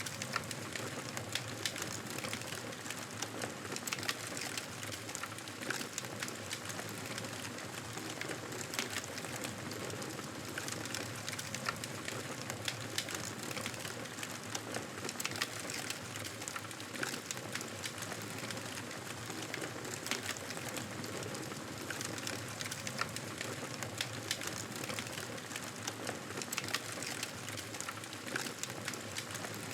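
Wood fire in a fireplace crackling: irregular small pops and snaps over a steady hiss.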